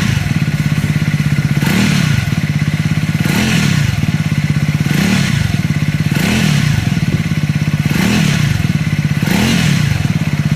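Triumph 400-series single-cylinder engine running with a steady low beat. About every second and a half it rises briefly in pitch with a burst of clatter. This is the abnormal engine noise the owner is recording.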